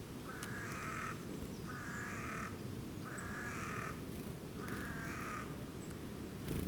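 A crow cawing four times, each caw harsh and just under a second long, over a steady low outdoor background, with a short click near the end.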